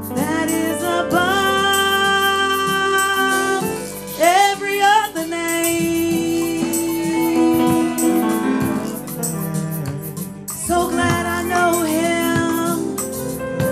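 Live gospel worship music: a singer holds long, sliding notes over sustained keyboard chords, with some guitar.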